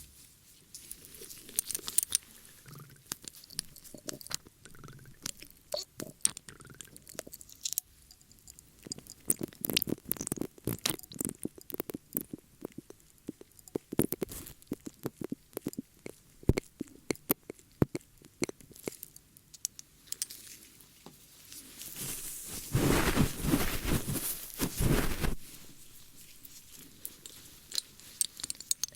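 Close-miked ASMR ear-cleaning sounds: sharp crackling and clicking, with a few seconds of louder, dense rubbing about three-quarters of the way through.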